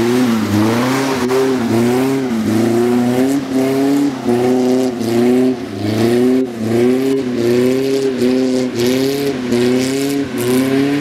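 Vintage Bentley saloon's engine labouring up a muddy trials hill, its revs rising and falling over and over, a little more than once a second, as the car scrabbles for grip.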